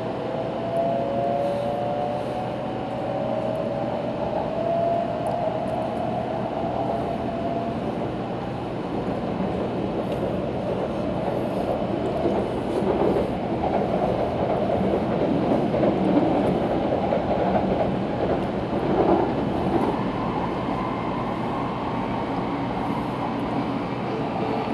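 An 800 series Shinkansen running at speed, heard from inside the passenger car as a steady rushing rumble. For the first several seconds a whine rises slowly in pitch. The running noise grows louder and rougher about halfway through.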